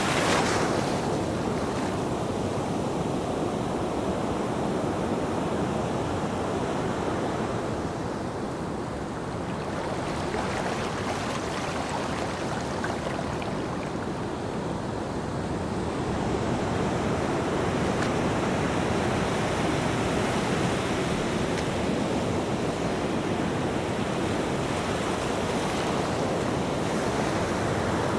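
Ocean waves breaking on a beach: a continuous wash of surf that eases twice in the first half and then builds back to a fuller rush.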